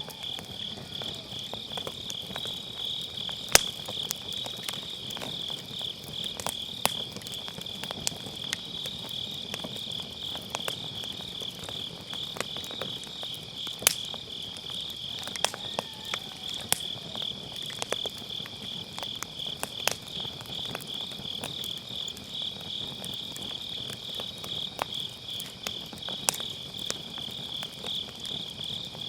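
Grass insects chirping in a steady pulsing trill over a wood fire crackling in a fire pit, with scattered snaps from the burning firewood. The sharpest pops come about three and a half seconds in and again near fourteen seconds.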